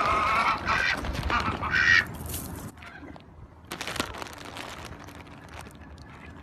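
A bird calling loudly, several pitched calls in quick succession over the first two seconds, then quieter sounds with a short burst of noise about four seconds in.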